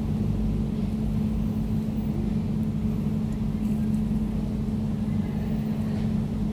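Air conditioner running steadily: a constant low drone with a steady hum in it.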